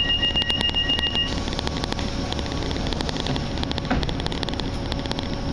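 Inside a train carriage, the train's steady running hum and frequent light clicks and rattles. A steady two-note electronic warning tone sounds at the start and stops after about a second. A single knock comes near the end.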